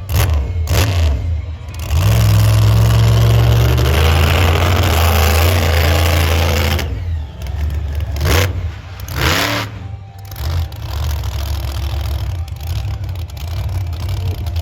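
Monster truck engine revving: a few short throttle blips, then held at high revs for about five seconds, more sharp blips, and settling to a lower rumble near the end.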